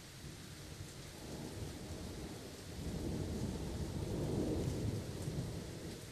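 Thunder rumbling over steady rain. The rumble builds about a second in, is loudest a little past the middle, and fades near the end, while the rain hiss goes on throughout.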